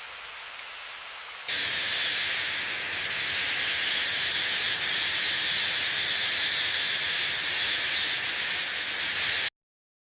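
Rainforest rain ambience: a steady hiss of rain with a high, even insect drone over it. It steps up louder about a second and a half in and cuts off abruptly near the end.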